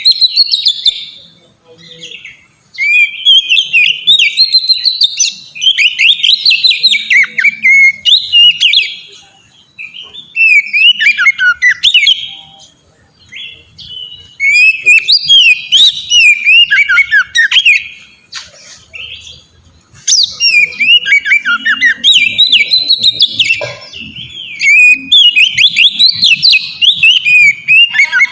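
Oriental magpie-robin (kacer) in full song: loud phrases of fast, rising and falling whistled notes, each a few seconds long, with short pauses between them.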